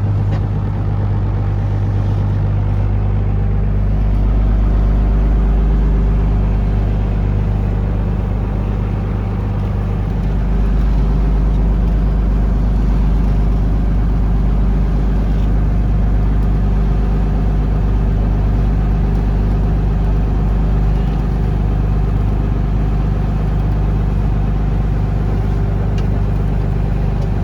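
A taxi boat's engine running steadily under way, a loud, even low hum with a little wash of water and wind noise over it.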